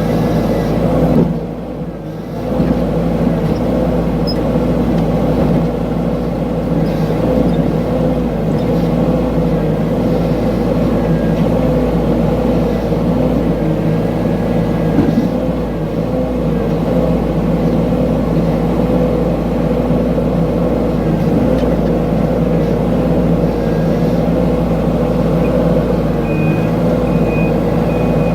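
Mini excavator engine running steadily under work, dipping briefly about two seconds in. Near the end a few short high beeps sound.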